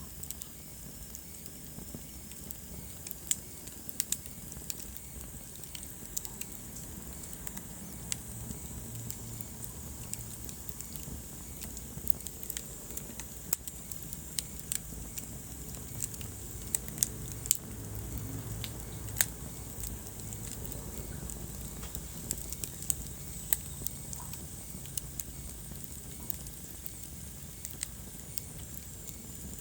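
Wood fire burning in a fireplace, crackling with irregular sharp pops over a low, steady rumble of flame.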